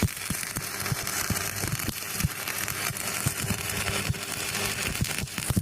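Stick-welding arc crackling steadily, with frequent irregular sharp pops, as two electrode rods are burned together.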